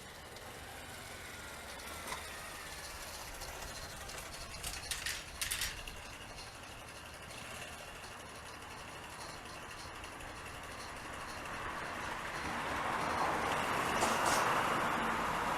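Vehicle noise approaching and growing louder over the last few seconds, with a few sharp clicks about five seconds in.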